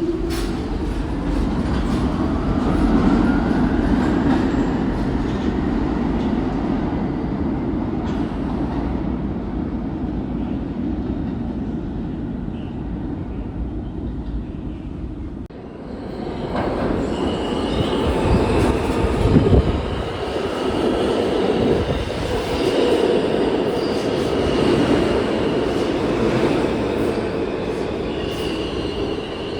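Passenger train running on rails: a low rumble with a whine rising in pitch over the first few seconds. About halfway through, the sound cuts to another train passage with a rumble and a steady high wheel squeal.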